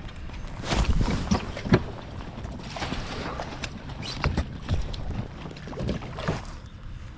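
Bass splashing at the side of a kayak as it is fought in, with irregular knocks and bumps against the hull and wind on the microphone.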